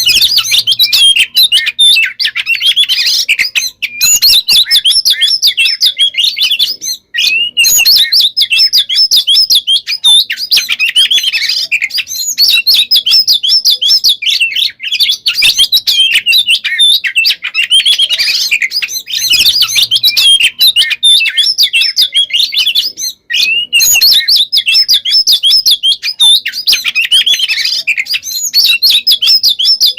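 Oriental magpie-robin singing nonstop in a rapid, dense stream of varied whistles and trills, with only a couple of brief pauses. It is a full 'gacor' song of the kind played to set other magpie-robins singing.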